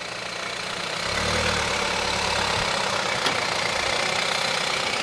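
Jeep Wrangler JL's 2.2-litre diesel engine running at low revs while crawling off-road, its low drone strongest for a couple of seconds after the first second, over a steady hiss. One sharp click a little after three seconds in.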